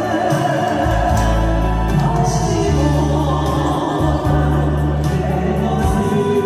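Band music with singing: a vocal melody over steady, sustained bass notes that shift every second or two.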